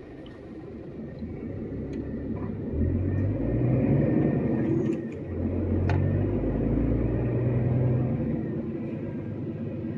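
Heavy truck's diesel engine running under load. It gets louder about three seconds in, dips briefly just after the halfway point, pulls again, then eases off near the end.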